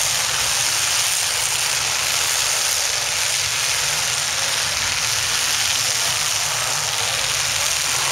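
Engines of several demolition derby cars running and revving together, a loud, steady din with no single crash standing out.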